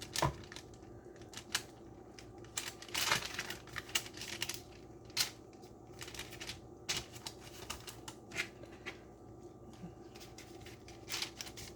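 Scattered light taps, clicks and rustles from hands handling food and wrappers on a kitchen counter, with a cluster of rustling about three seconds in.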